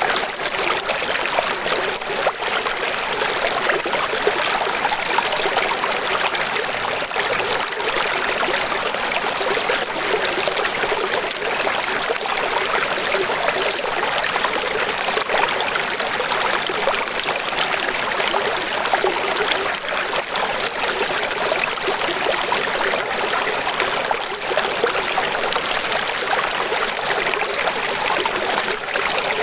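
Running water making a steady, even rush, with no pauses or changes.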